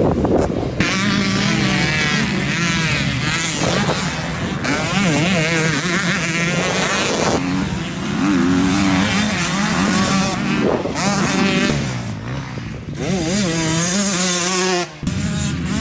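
Two-stroke motocross bike engines revving hard, the pitch climbing and dropping again and again as the throttle is worked and gears change. The sound jumps abruptly several times as it cuts from one riding clip to another.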